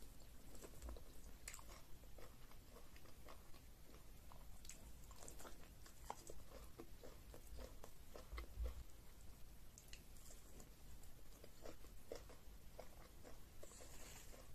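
A person biting and chewing a piece of meat coated in egusi soup: a quiet run of small mouth clicks, thickest in the middle.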